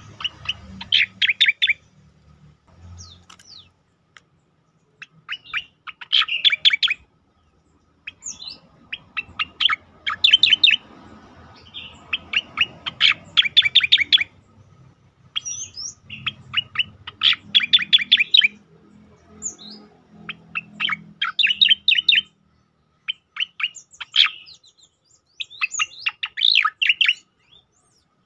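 Cicak oreng songbird giving its 'tembakan' calls: rapid runs of sharp chirps, delivered in phrases of a second or two and repeated after short pauses.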